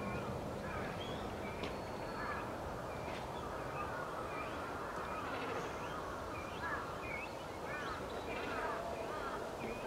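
Great cormorant chicks calling at the colony: many short, high chirping calls overlapping throughout, over steady background noise.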